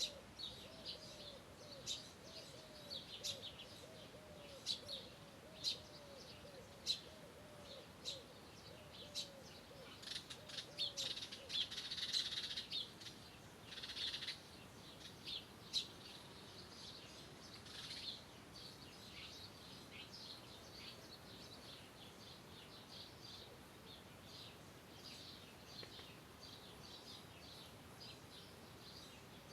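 Birds chirping and calling: many short high chirps throughout, busiest around the middle. A lower call repeats about twice a second in the first half and dies away partway through.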